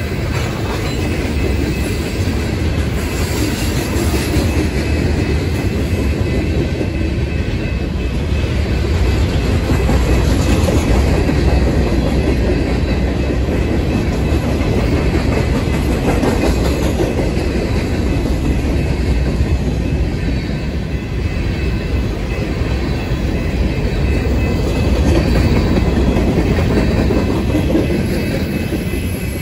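Train rolling past on the tracks: a continuous, steady rumble of wheels on rail that swells a little louder twice.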